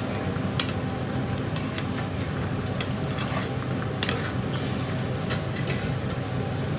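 Chicken madras curry being stirred in a pan with a metal utensil, sizzling, with sharp clinks of metal on the pan about once a second, over a steady low hum.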